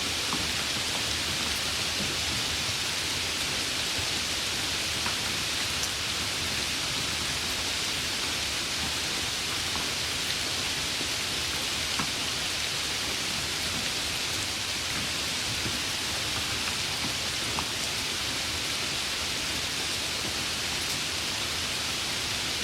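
Heavy rain falling steadily: a dense, even hiss with occasional sharper drop ticks.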